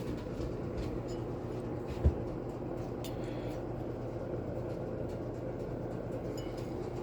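A steady low hum from a running machine or fan, with a few faint clicks and a single short knock about two seconds in.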